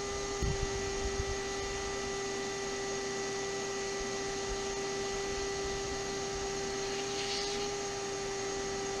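A steady, even hum with a clear mid-pitched tone and fainter higher overtones, with a few low thumps in the first second or so.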